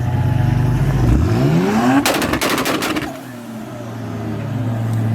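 A performance car's engine running, then revving up over about a second into a rapid burst of loud exhaust pops and cracks lasting about a second, after which it drops back to a low steady run.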